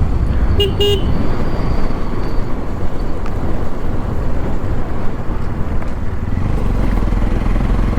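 Motorcycle on the move: steady wind noise over the microphone with the engine running underneath. A short tone sounds about half a second in.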